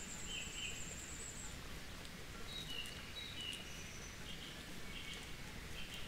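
Faint birdsong: short whistled phrases from several birds, with a high thin trill in the first second and a half, over a steady background hiss.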